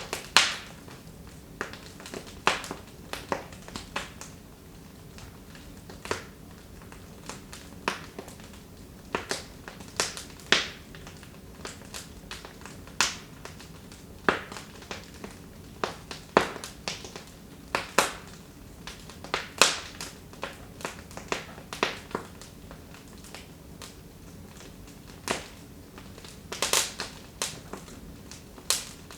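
Wood fire in a fireplace crackling: irregular sharp pops and snaps, several a second at times, a handful of them much louder, over a low steady background.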